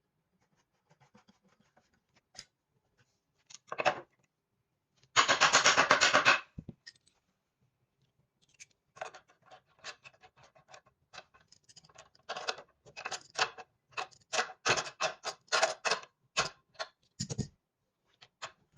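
Hand work on exercise-bike parts: scattered clicks, taps and rattles, with a loud run of rapid, even clicking lasting about a second, about five seconds in.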